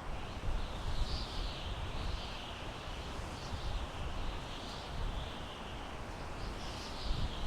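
Wind blowing through pine trees: a steady rushing hiss whose higher part swells and fades about once a second, over a low rumble of gusts.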